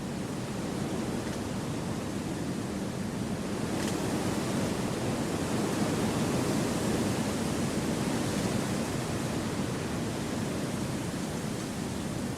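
Wind blowing through trees: a steady rushing that swells gradually to a gust in the middle and eases off again.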